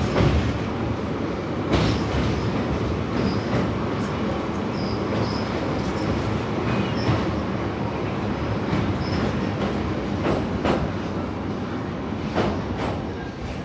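Passenger train running past on the rails: a steady rumble of wheels on track, with sharp clicks over rail joints and several short, high wheel squeals. It eases off slightly near the end.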